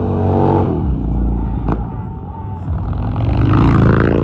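Heavy motorcycle engine revving: its pitch drops over the first second, then climbs again in the last second and a half before cutting off suddenly.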